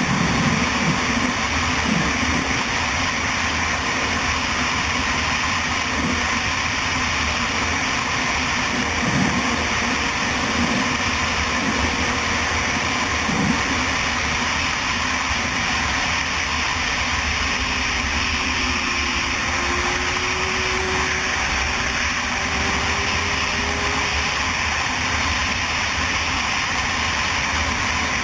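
A motorcycle running at steady speed, its engine under continuous wind and road noise. A faint tone dips in pitch and climbs back about two-thirds of the way through.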